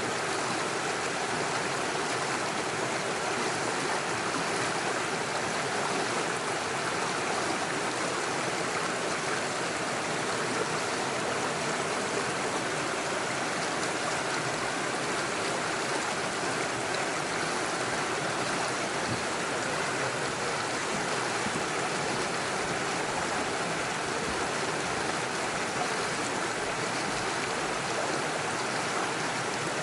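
Small rocky stream with small waterfalls, water rushing and splashing steadily over stones.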